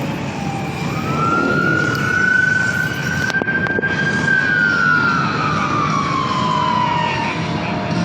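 Emergency vehicle siren sounding one slow wail: the pitch rises for about three seconds, then falls away over the next three, over steady street and traffic noise.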